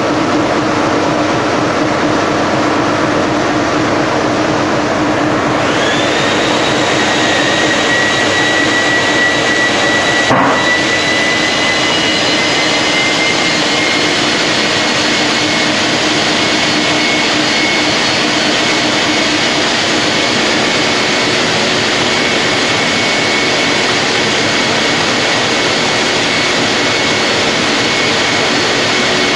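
Big Brute industrial wet & dry vacuum cleaner running steadily at full suction. About five seconds in, a high whine comes in, rising in pitch and then holding, and a single click sounds about ten seconds in.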